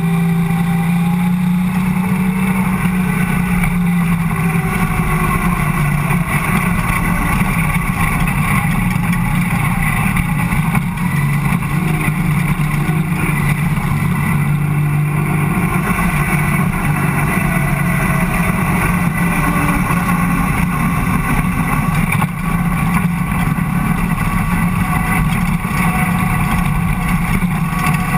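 Ford Cortina dirt-track race car's engine running hard under racing load, heard loud from inside the stripped cabin, its pitch dipping and rising a little with the throttle.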